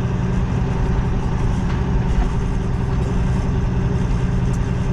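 Semi truck's diesel engine running steadily at low revs, a constant low drone.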